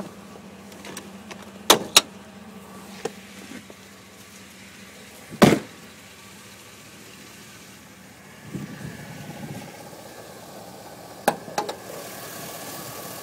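Clicks and clunks of a pickup truck's hood being unlatched and raised, the loudest clunk about five seconds in, over the steady low hum of the idling engine. Near the end the engine's running noise comes up a little louder and steadier.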